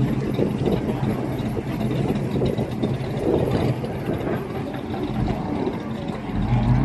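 Car engine running at idle in noisy outdoor surroundings, a little louder near the end.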